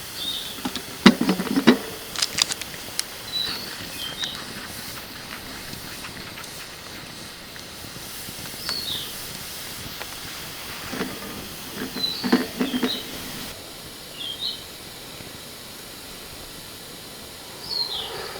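A small bird giving short high chirps every few seconds over a steady hiss, with two bouts of clattering clicks and knocks: one about a second in and another from about eleven to thirteen seconds.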